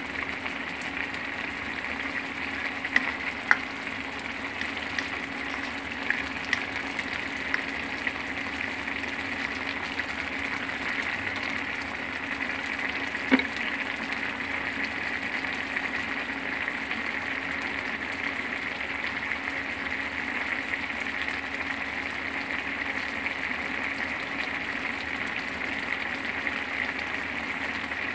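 Food sizzling steadily in a hot pan, with a few sharp clicks of a utensil against the pan and a steady low hum underneath.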